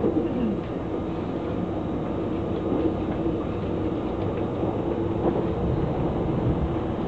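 Passenger train running at speed, heard from inside the carriage: a steady rumble of wheels on the rails and car noise, with a few faint clicks.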